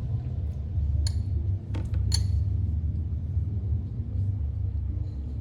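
Steady low rumble with two short, light clinks about a second apart, over faint background music.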